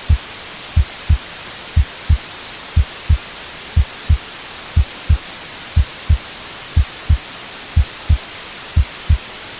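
Heartbeat sound thumping in low lub-dub pairs about once a second, over a steady hiss of white noise.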